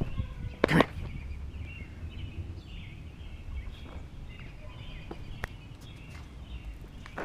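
Small birds chirping faintly in the background over a low outdoor rumble, with one short, loud puff of noise under a second in.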